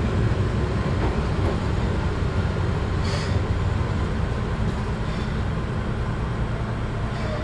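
Steady rumble and noise of a Keihan Ishiyama-Sakamoto Line train heard from inside the car, with a brief faint hiss about three seconds in.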